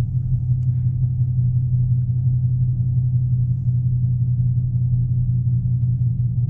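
Straight-piped Chevrolet Camaro V8 with headers running steadily at low revs, a deep even exhaust rumble with no revving.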